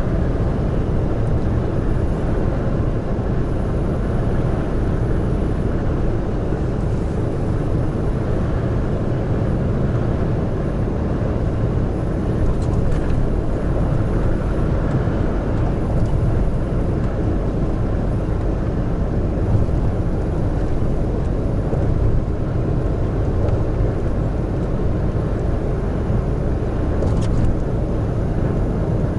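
Steady running noise of a heavy truck cruising on an expressway: a constant low rumble of engine and tyres on the road that barely changes in level.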